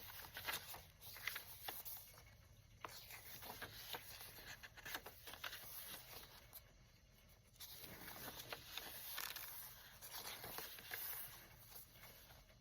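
Faint rustling and soft ticks of paper journal pages being handled and turned, with two quieter pauses.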